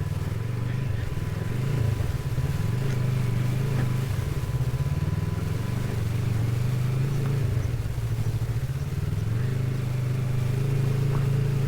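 Motorcycle engine running at low speed as the bike is ridden, its pitch rising and falling slightly with the throttle.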